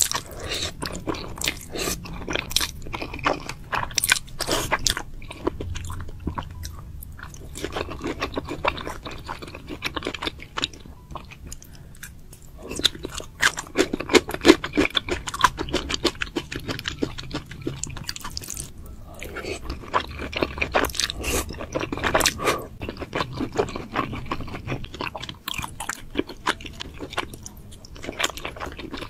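A person chewing a mouthful of noodles and kimchi, a run of moist crunching and smacking clicks that comes in bursts, with two short pauses between bites.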